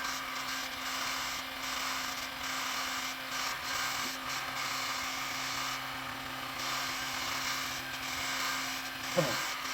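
A handheld electric power tool running steadily, a constant whirr with a low hum under it, switched on just before and cut off right after.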